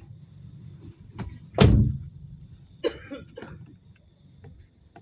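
A door shutting with one heavy thud about a second and a half in, followed a second later by a few lighter clicks and knocks.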